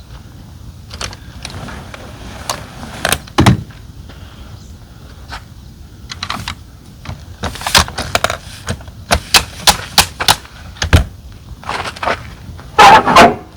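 Hands folding up a roof top tent: a string of sharp clicks and knocks from its frame and hardware, quickest in a run a little past the middle, then a longer noisy burst near the end, the loudest sound.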